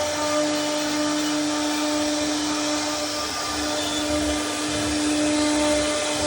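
CNC router spindle running steadily while cutting a design into a wooden door, a constant whine over a rushing noise.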